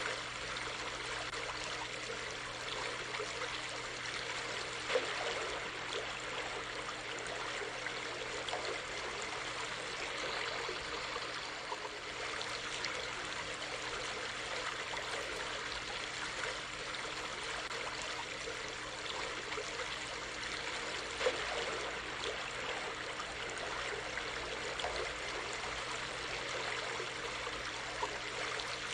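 A small stream flowing steadily, an even rush and trickle of water, with a couple of brief louder splashes, one about five seconds in and one past twenty seconds.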